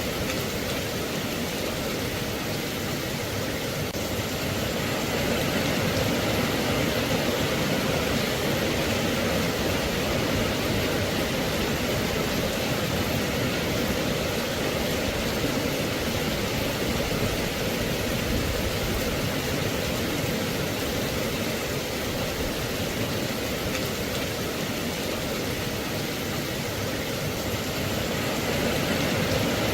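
Steady rain falling, an even hiss that holds on without pauses or single loud drops.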